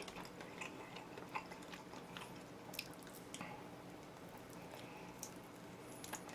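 Quiet chewing of oven-roasted chicken, with scattered small clicks from the mouth.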